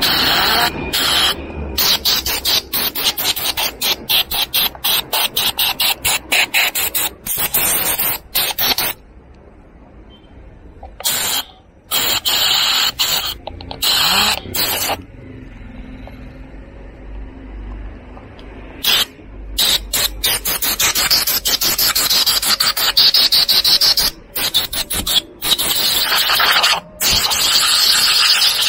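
Rapid scrubbing and scraping strokes with a hissing edge as the parts of a Fantom Carbon DC500 stick vacuum are cleaned by hand, broken by two short quieter pauses.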